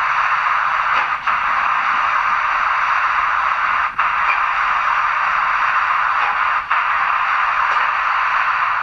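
Steady steam hiss of cylinder drain cocks venting, played by the sound decoder of an OO gauge model steam locomotive through its small onboard speaker as the engine sets off, with three brief dips in the hiss.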